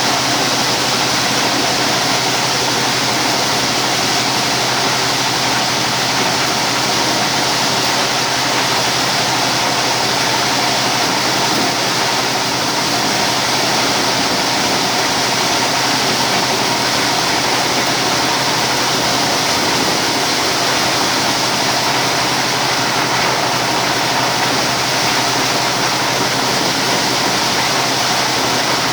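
Diesel engine running a corn sheller at a steady speed: a constant engine drone under a dense, even rushing noise, unchanged throughout.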